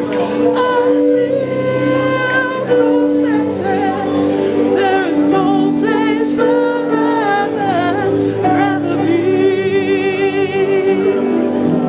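Gospel worship music: a voice singing with vibrato over long, held instrumental chords.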